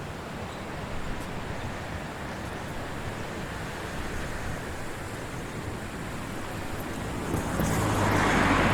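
Strong wind rushing steadily through the trees. Near the end a motor vehicle approaches and grows louder.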